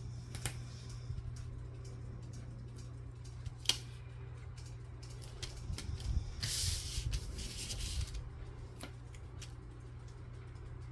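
Paper handling while gluing envelope pages down: a few light clicks and taps, and a couple of seconds of paper rustling and rubbing about six seconds in, over a steady low hum.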